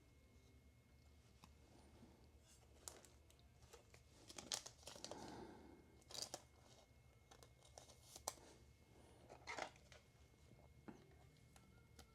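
Faint crinkling and tearing of trading-card packaging being opened, in several short bursts with pauses between them.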